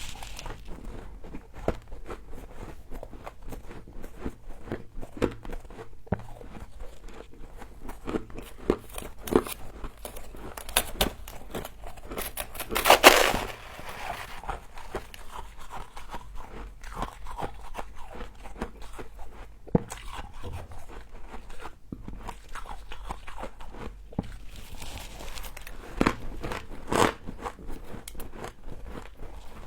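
A person biting and chewing humidifier frost close to the microphone: crisp, irregular crunches throughout, with a loud, dense run of crunching about halfway through.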